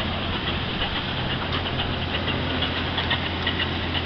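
A 2008 Ford F-250's 5.4-litre gas V8 idling steadily.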